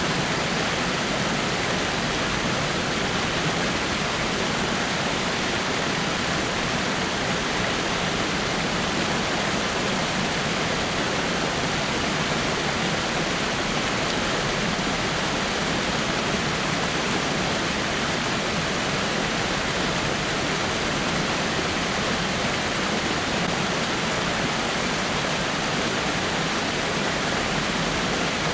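Small waterfall splashing down over rocks in a steady, unbroken rush of water.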